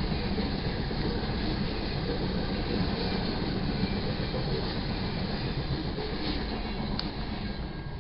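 Freight train cars rolling past with a steady rumble and clatter of wheels on rail. Near the end the last car goes by and the sound begins to die away.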